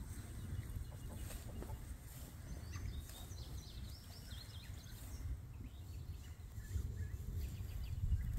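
Birds chirping in short, high calls that slide quickly in pitch, in a cluster about three seconds in and again around six seconds, over a steady low rumble like wind on the microphone.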